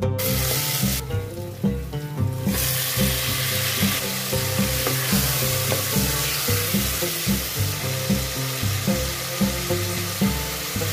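Onions, ginger-garlic and then mutton pieces sizzling in hot oil in an aluminium pressure cooker, stirred with a spatula. The sizzling eases briefly about a second in and grows louder about two and a half seconds in.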